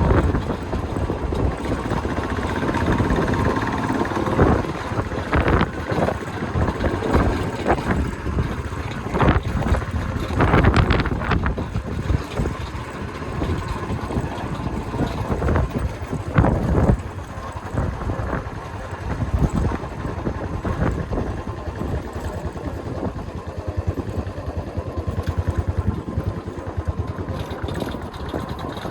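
A vehicle driving along the road, its running noise mixed with wind buffeting the microphone, and irregular knocks and thumps throughout.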